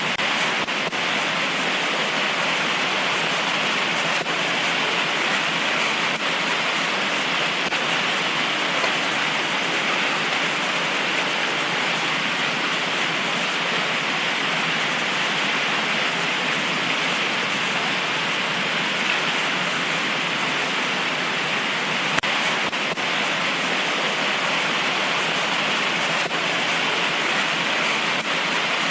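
Heavy tropical rain pouring down steadily, an even hiss of rain with no letup and a few faint drip clicks.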